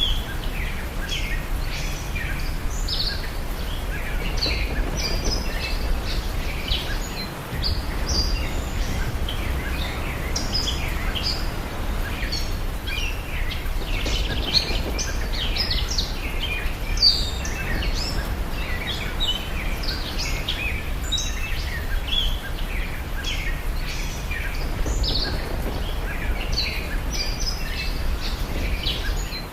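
Many small birds chirping and twittering without a break, over a steady low rumble.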